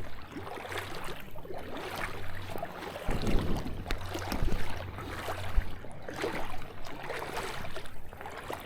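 Shallow river water splashing and sloshing in uneven surges around someone standing knee-deep in it.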